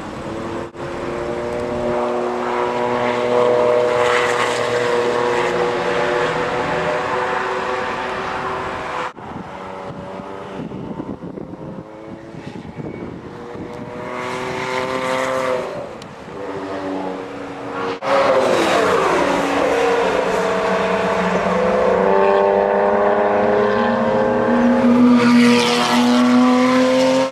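Supercharged Porsche 911 (997 Carrera S) 3.8-litre flat-six running hard at racing speed, its pitch climbing and falling with throttle and gear changes. The sound breaks off and changes abruptly twice, about 9 and 18 seconds in, and rises slowly near the end.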